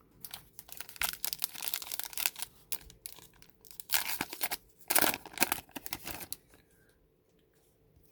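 A foil baseball-card pack wrapper being torn open and crinkled in hand, in a run of crackly rips that is loudest about five seconds in and dies away after about six and a half seconds.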